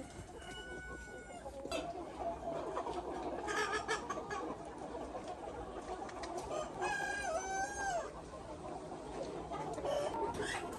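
A flock of chickens clucking continuously, with a few louder drawn-out calls standing out, the longest about seven seconds in.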